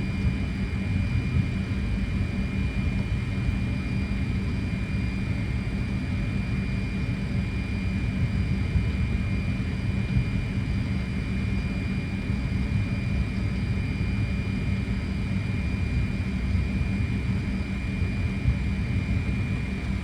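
Steady cockpit noise of a Fokker 100 taxiing on its engines: a constant low rumble with a steady hum and a thin high whine that stays level throughout.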